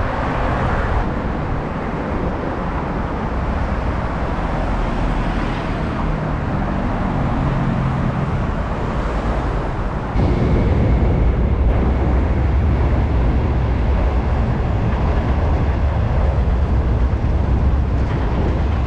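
Road traffic: a steady wash of vehicle noise with a low rumble, growing louder and deeper from about ten seconds in.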